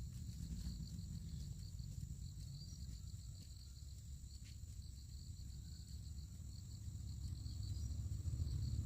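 Insects such as crickets chirring steadily in a high, finely pulsing chorus over a low rumble that swells near the end.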